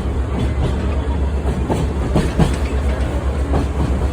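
Sightseeing trolley train rolling along the track: a steady low rumble with scattered clicks and clatter from the wheels on the rails.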